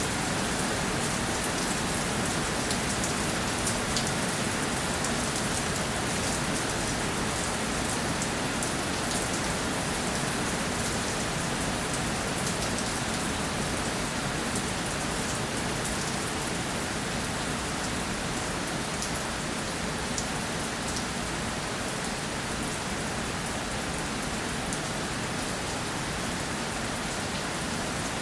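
Steady, even rainfall, with fine drop ticks scattered through it.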